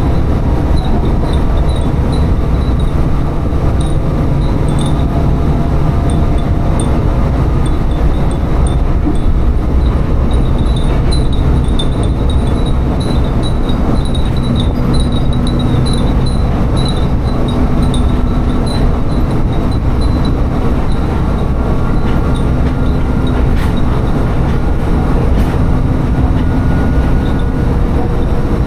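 Diesel railcar running steadily between stations, heard from inside the car: a continuous low engine and wheel rumble, with the car's hanging glass wind chimes (fūrin) tinkling in short, irregular pings throughout.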